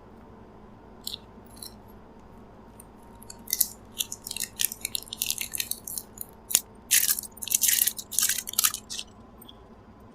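Crisp crackling and crunching from packaged chocolate bars and their wrappers being handled, in a run of short bursts that starts about three seconds in, grows denser and stops about nine seconds in.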